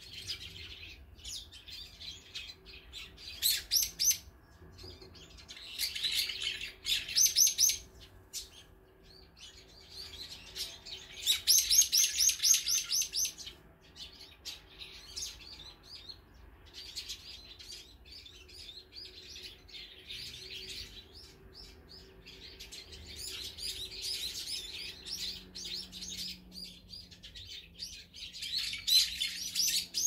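Songbirds calling in bursts of rapid, high chirps, several runs a few seconds apart, the loudest about twelve seconds in.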